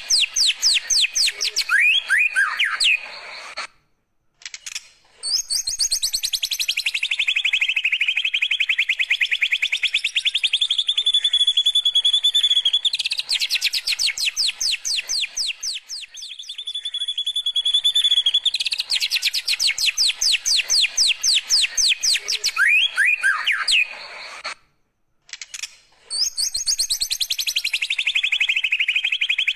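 White-rumped shama (murai batu) singing long, very fast canary-like trills. Some trills slide down in pitch and then hold steady, broken by two short pauses, and the same run of phrases comes round again about 20 seconds later.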